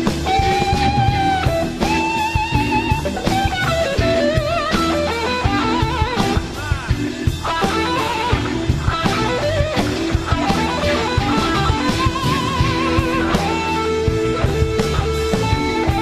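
Blues-rock band playing an electric guitar solo. Single-note lead lines with bent notes and wide vibrato run over bass and drums.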